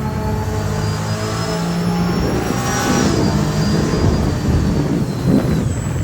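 Snowmobile engine running hard at speed, a steady loud drone with a thin high whine over it that rises a little and then eases off.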